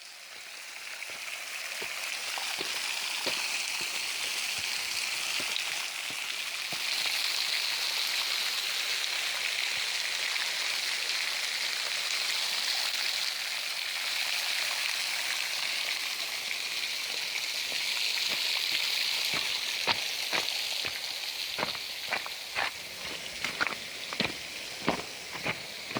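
Steady rushing water of a waterfall, a hiss that rises over the first couple of seconds and then holds. Irregular sharp clicks and snaps come in and grow more frequent over the last several seconds.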